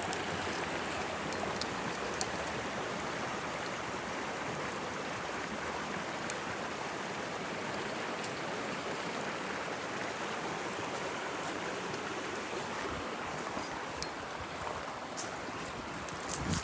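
Mountain stream water rushing steadily over rocks, with a few faint clicks and a small knock near the end.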